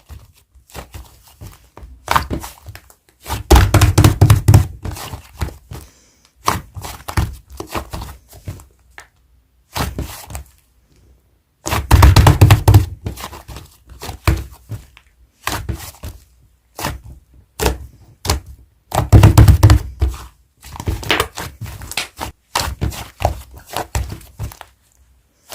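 Hard clay slime being pressed, poked and squished by hand, giving clusters of sticky clicks and pops with dull thunks. Three louder spells of thudding come about 4, 12 and 19 seconds in.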